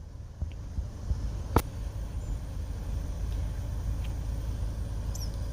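Car engine idling, heard as a steady low rumble. A sharp click comes about one and a half seconds in, and a brief faint high bird chirp near the end.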